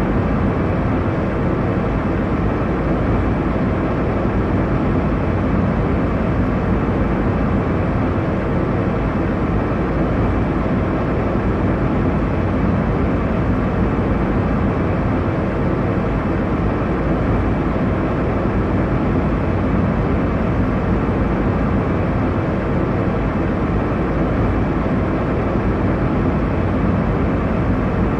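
Airliner cabin noise in cruise: a steady, even roar of engine and airflow with a low hum and no changes.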